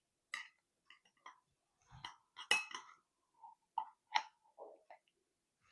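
Serving utensils clinking and scraping against a pie dish as a slice of pot pie is cut and lifted out: a scatter of separate taps, the sharpest about two and a half and four seconds in.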